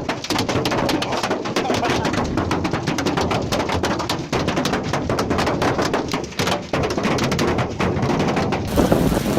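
Many rapid, irregular knocks and clatters of objects striking a hard surface, cutting off abruptly near the end.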